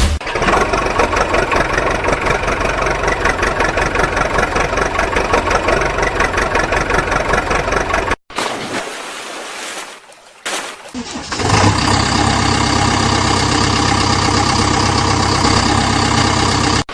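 A vehicle engine runs with a fast, even chug and cuts off suddenly about eight seconds in. After a quieter gap with a short burst, an engine runs steadily at idle.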